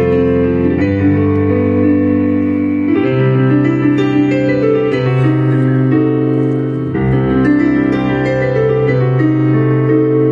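Electric piano playing a slow introduction in sustained, rolling chords.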